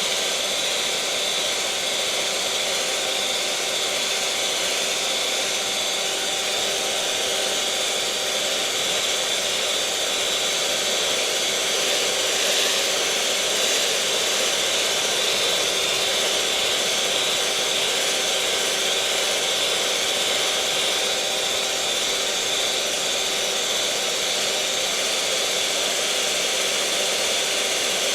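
Electric mixer running steadily at one speed: an even motor whir with a constant hum and a higher whine that do not change.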